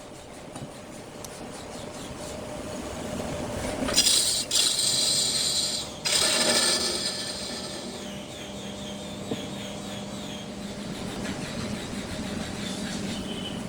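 Wood lathe running while a tool works the spinning wood, loudest and hissiest between about four and seven seconds in, then settling to a steadier running sound.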